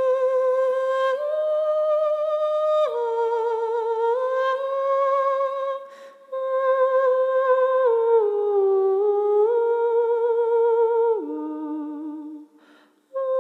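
A single voice humming a slow melody in long held notes with a slight waver, stepping from one pitch to the next, with a short break about six seconds in and again near the end.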